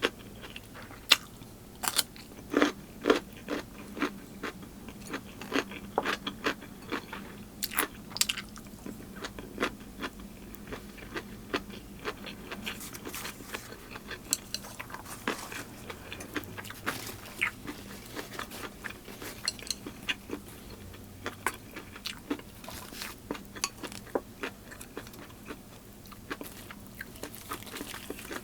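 Close-miked eating: a person biting and chewing crisp food, with many short, sharp crunches between softer chewing.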